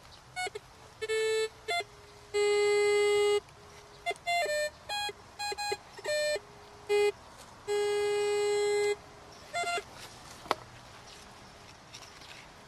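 Metal detector sounding its target tones: a run of short and long electronic beeps, mostly a low tone with a few higher ones, the two longest about a second each. The beeps come over a target the detectorist suspects is a nail. A single sharp click follows near the end.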